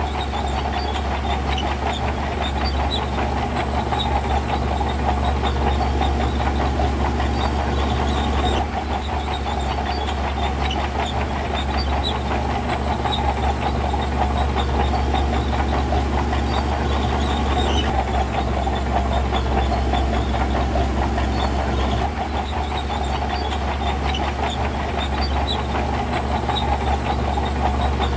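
Diesel engine of a heavy earthmoving machine running steadily under work, with a dense rattling clatter throughout and brief small dips in level.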